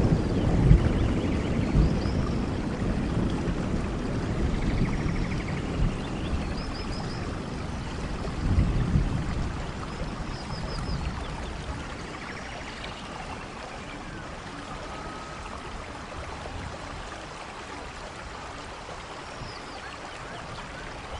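Steady rain falling, with a low rumble of thunder dying away at the start and a short swell of rumble about eight seconds in. The rain slowly grows quieter.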